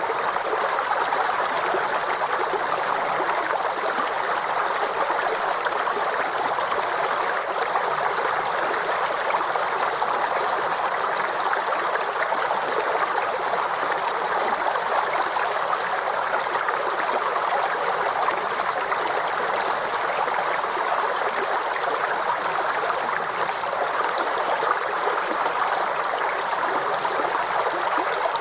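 Forest stream running over stones: a steady, even babble of flowing water.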